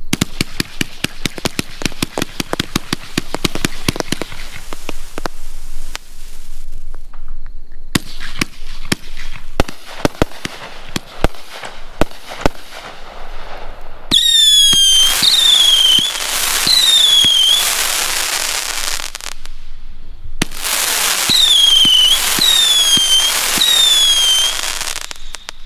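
A 500-gram, 42-shot consumer fireworks cake firing. It opens with a rapid volley of shots, then a few scattered bangs. After that come two long stretches of crackling, each with a string of short whistles that drop slightly in pitch, from the whistle-tail and crackling-willow-with-whistle effects.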